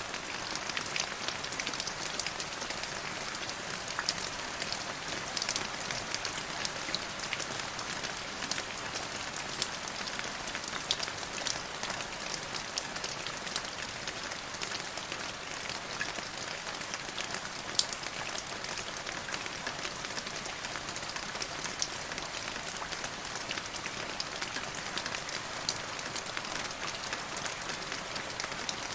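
Steady rainfall with many separate drops pattering on a surface, at an even, continuous level.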